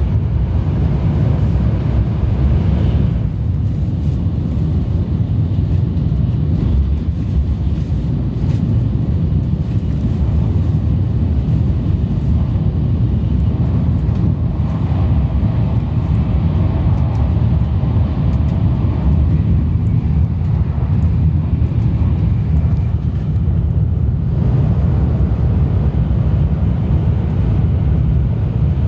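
Sanyo Shinkansen train running at speed, heard from inside: a steady low rumble and rush of running noise, with a change in tone about three seconds in and again near the end.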